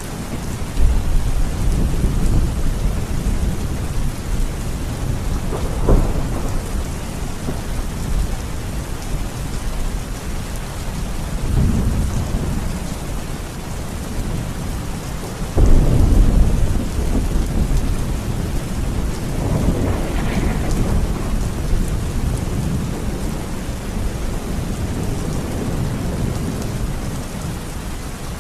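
Heavy rain falling steadily, with several rolls of thunder rumbling through it; the loudest come about a second in and about halfway through, with a sharper crack around six seconds in.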